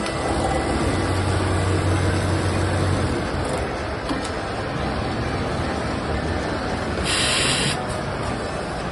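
Automatic lockstitch pintuck sewing machine running with a steady mechanical noise and a low hum in the first few seconds. A short hiss lasting under a second comes about seven seconds in.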